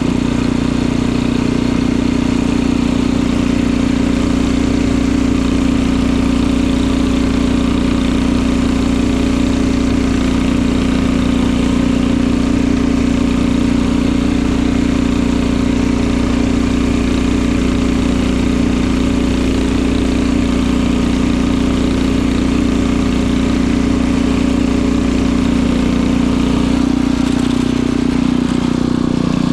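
Snowblower engine running steadily at one constant speed while clearing snow.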